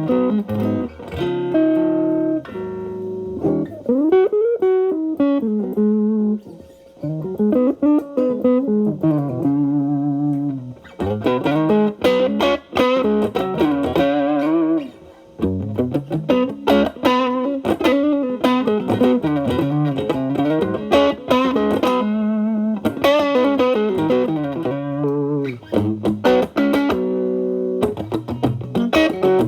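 Telecaster electric guitar played through an MXR Distortion+ set at 9, stacked into a Boss SD-1 at drive 8, into a Marshall Valvestate amp on its clean channel, with the guitar's volume rolled back so the drive cleans up. It plays improvised lead lines with string bends and vibrato, pausing briefly a couple of times.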